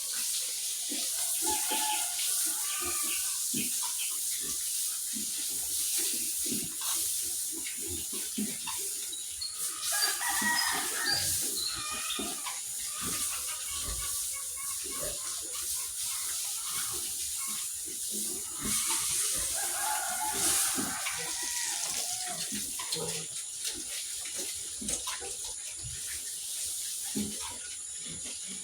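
Water running and splashing, as from a hose washing out the pig pens, with clicks and knocks throughout. Chickens call and cluck now and then, twice more clearly, about ten seconds in and again near twenty seconds.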